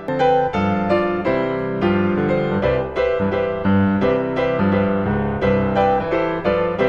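Background piano music: a steady run of notes played over a sustained accompaniment, louder just after it begins.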